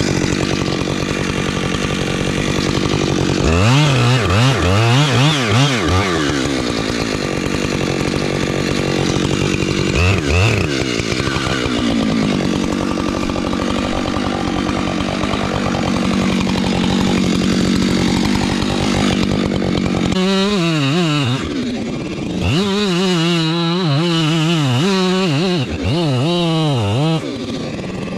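Husqvarna chainsaw cutting wood at high revs. The pitch sags and recovers in the first seconds, then holds steady through a long cut. Over the last several seconds it is revved up and down repeatedly.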